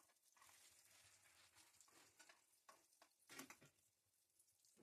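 Near silence: faint hiss with a few soft clicks and one slightly louder short rustle about three and a half seconds in.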